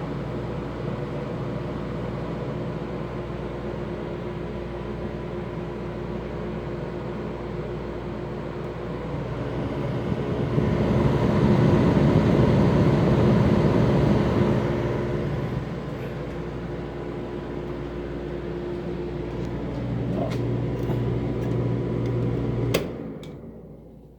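Air conditioner and heat unit running in cooling mode, a steady hum with a louder rush of air for a few seconds midway. Near the end there are a few clicks and the unit shuts off, its sound dying away quickly.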